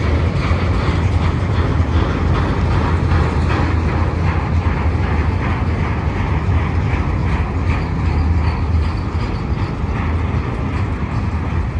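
Empty autorack freight cars rolling past on the main track: a steady, loud rumble of steel wheels on rail with faint repeated clicks.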